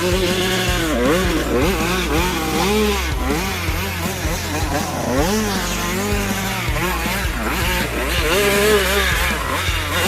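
Trail motorcycle engine revving up and down over and over, its pitch rising and falling about once a second, as the rider works the throttle on rough ground.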